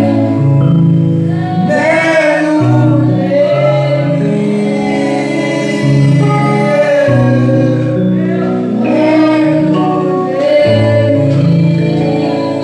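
Gospel worship song: voices singing over steady, held chords.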